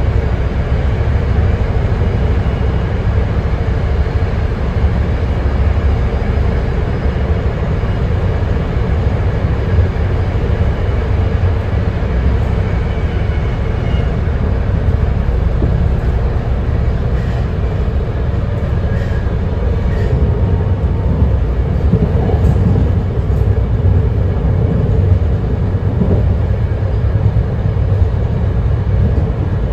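BART Legacy Fleet train running on the track: a steady, loud rumble of wheels and running gear, with a few faint high squeals about halfway through.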